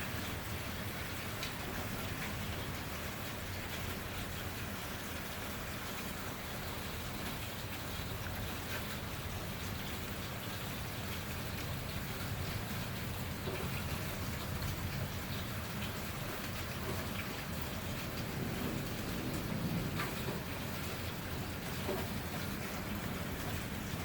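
Steady rain falling, with scattered drops ticking on a surface and a low rumble swelling slightly about three quarters of the way through.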